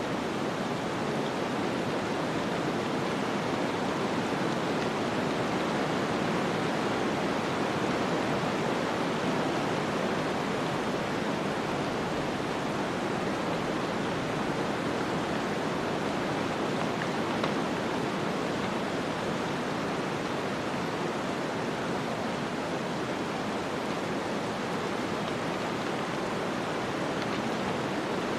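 Snowstorm ambience: a steady, even rush of wind-driven noise with no separate sounds in it, swelling only slightly.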